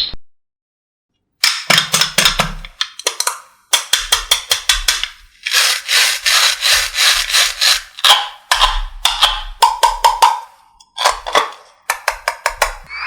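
Rapid clicking and clattering taps in bursts with short gaps, starting after about a second of silence.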